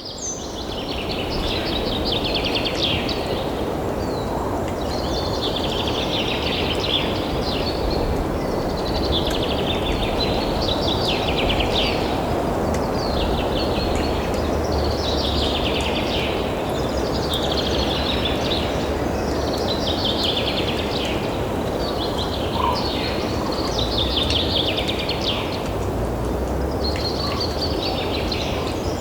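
A bird calling over and over, a short pulsed trill about every two seconds, each falling slightly in pitch, over a steady low background rumble.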